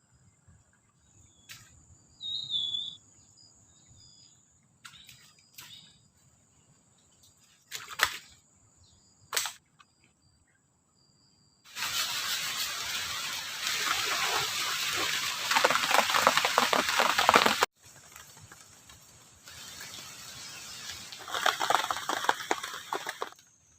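Rainforest ambience with a steady high insect drone, a short bird chirp and a few light clicks. About halfway in, heavy rain sets in as a loud, even rushing. It stops abruptly, then resumes near the end.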